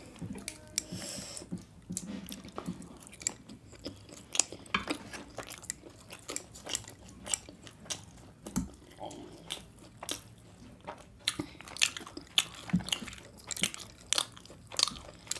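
Close-miked eating: a person biting and chewing food, with many short, irregular crunches and mouth clicks.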